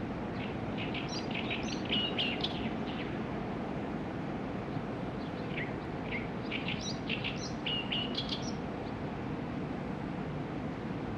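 Small birds chirping and calling in quick bouts of short high notes, over a steady low background noise.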